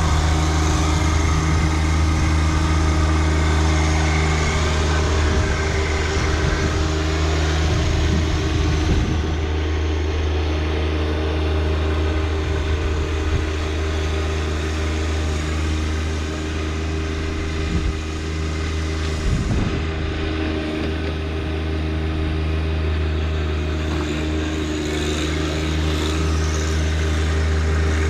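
John Deere 1025R compact tractor's three-cylinder diesel engine running steadily, driving the 260B backhoe, with a couple of brief knocks about a third and two-thirds of the way through.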